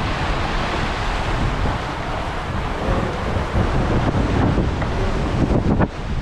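Wind buffeting the microphone over the steady rush of sea water around a sailboat under way on open ocean.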